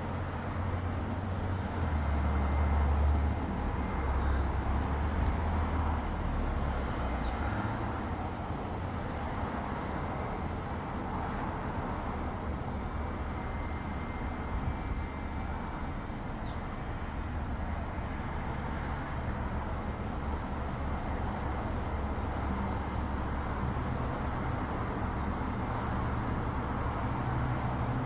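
Steady outdoor background noise: a low, fluctuating rumble under an even hiss, somewhat louder a few seconds in. No distinct event stands out, and no launch is heard.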